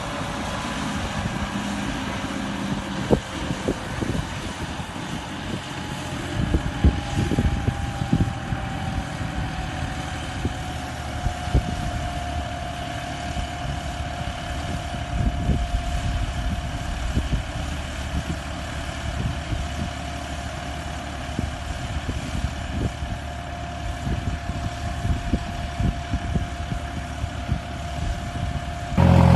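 John Deere 5405 tractor's CRDI diesel engine running steadily under load while pulling a 15-tine cultivator. A whine sits over it and drops a little in pitch between about 7 and 12 seconds in, then holds, with irregular knocks and clatter throughout.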